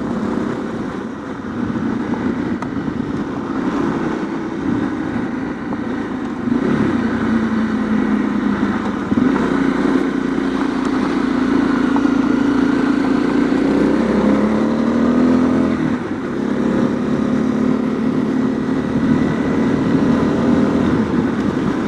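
Honda CRF250L's single-cylinder four-stroke engine running under way on a gravel road, its pitch rising and falling with the throttle.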